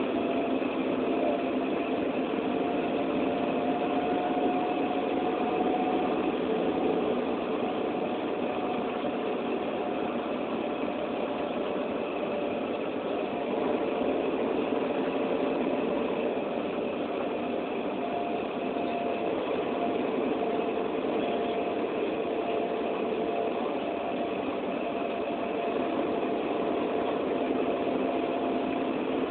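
Steady hum of a running engine over an even noise, with a few held tones that drift slightly in pitch.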